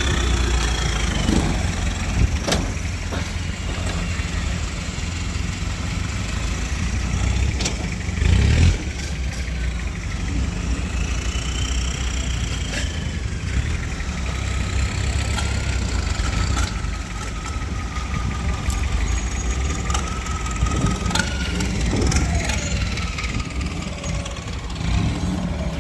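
Off-road 4x4 vehicle engine running steadily, with a few sharp knocks.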